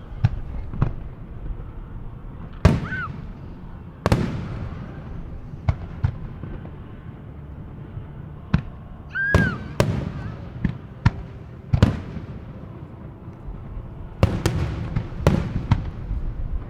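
Fireworks display: aerial shells bursting in an irregular series of sharp bangs, each echoing out into a low rumble, with a quick run of bursts near the end.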